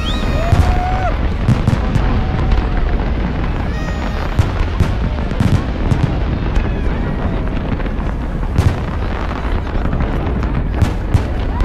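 A large fireworks display: a continuous deep rumble of booms with many sharp bangs and crackles throughout.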